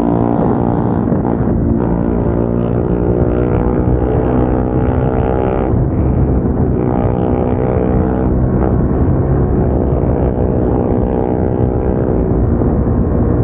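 Single-cylinder motorcycle engine with an aftermarket exhaust running steadily under way, its note dipping briefly a few times.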